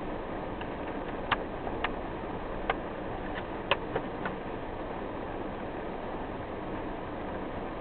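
Steady rain and driving noise of a car in a rain shower, with a few sharp taps spread irregularly between about one and four and a half seconds in.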